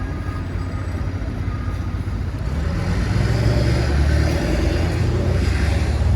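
Street traffic, with a motor vehicle's engine rumble growing louder from about halfway through.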